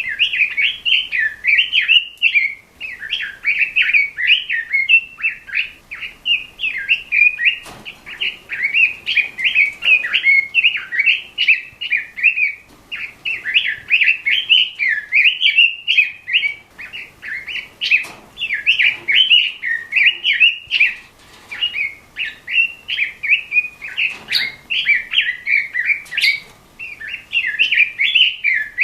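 Pekin robin (red-billed leiothrix) singing vigorously and almost without pause: rapid, rich warbling phrases separated by short breaks. A few faint clicks run under the song.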